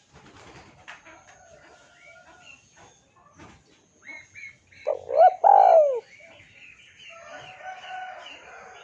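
Spotted dove calling. Its loudest notes are a quick run of three short coos about five seconds in, with small birds chirping behind it throughout.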